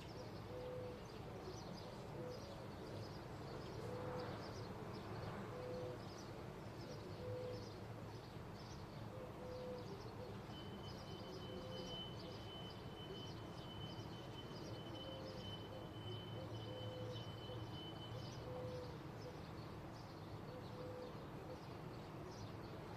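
A bird giving short, low hooting or cooing notes about once a second, with small birds chirping over it, over a steady low background rumble. A thin, steady high tone is held for several seconds in the middle.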